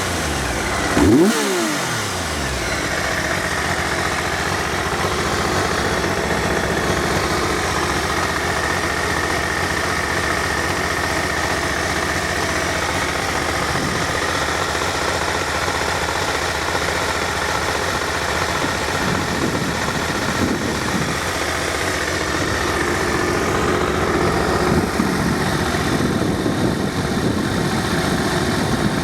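Triumph Sprint RS 955i motorcycle's three-cylinder engine idling steadily, with a quick blip of the throttle about a second in and a few lighter revs later on.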